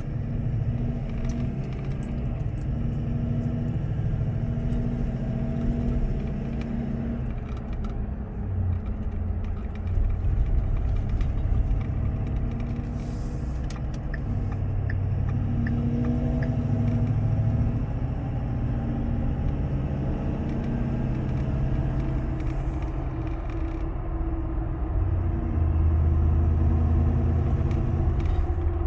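A 2012 Ford F-350's 6.7 L Power Stroke V8 turbo-diesel, heard as a steady low rumble of engine and road noise while driving, with pitched tones that swell and fade. Mixed in is a faint noise that the owner suspects comes from the engine, most prominent under light acceleration while cruising.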